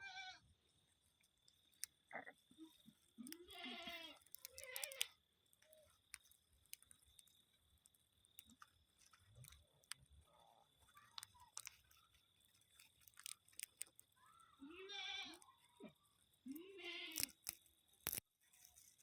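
Pet rose-ringed parakeet making a few short, faint calls, each wavering up and down in pitch, with small clicks in between.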